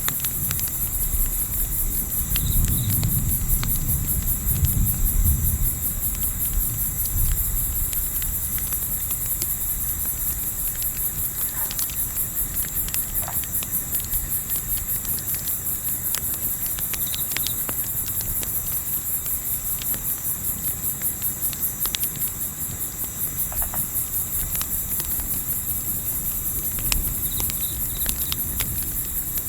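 Crickets chirping in a fast, even trill throughout, with scattered sharp pops from a crackling campfire. A low rumble sits underneath for the first few seconds.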